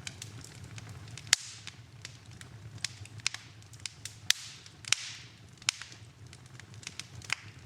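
Wood fire crackling in a fireplace: irregular sharp pops and snaps over a low, steady rumble, the loudest pop about a second and a half in. A short hiss rises and fades just past the middle.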